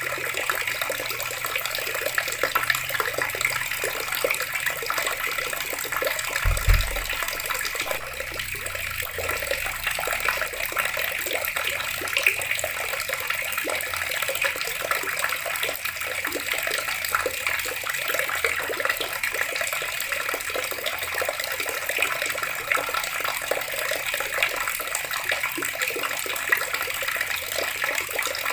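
Water running steadily from a tap and splashing. A single low thud comes about a quarter of the way in.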